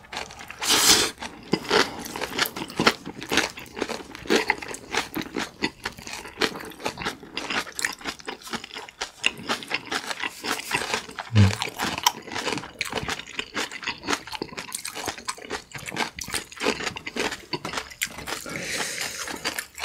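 Close-miked eating of kimchi-wrapped ramen noodles: a big bite about a second in, then continuous wet chewing, crunching of the napa cabbage kimchi and small mouth smacks.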